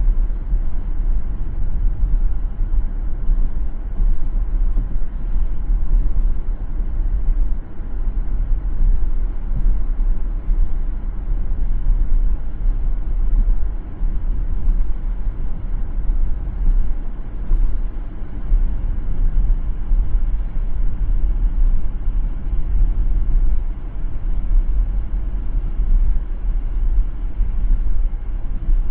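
Car driving on a city road: a steady low rumble of tyre and engine noise.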